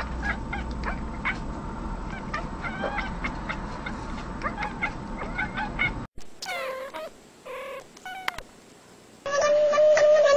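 Cats vocalising in three spliced clips. First, rapid short chirps and clicks from cats chattering at something outside a window. Then, after an abrupt cut, a few separate meow-like pitched calls, and in the last second a loud, drawn-out cat call held at one pitch.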